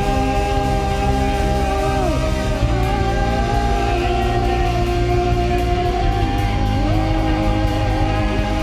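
Live worship band music, an instrumental passage of long held notes that move to a new chord every couple of seconds over a full band backing.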